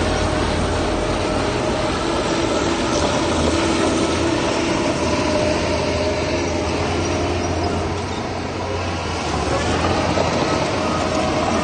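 Heavy diesel earthmoving machinery running steadily: a low engine drone with a steady whine above it. It eases off slightly about eight seconds in, then picks up again.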